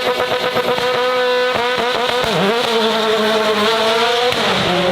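Porsche 911 GT3 Cup's 4.0-litre flat-six running at high, steady revs. A rapid stutter runs through the first second and a half, the revs dip briefly a little past two seconds in, and they fall away near the end.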